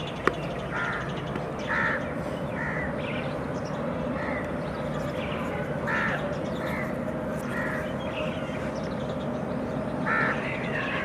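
Short, harsh bird calls repeated every second or so over a steady background hum, with one sharp click just after the start.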